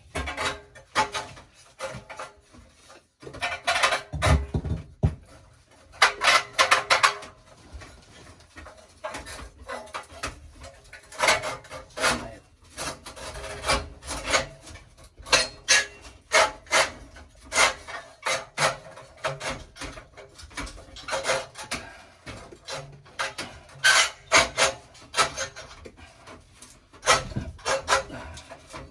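Irregular short scrapes, rubs and clicks of metal parts being handled and worked back into place inside a gas water heater.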